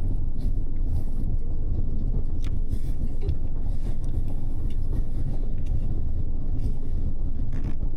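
Double-decker bus cabin noise on the move: a steady low rumble of engine and road, with faint scattered ticks and rattles.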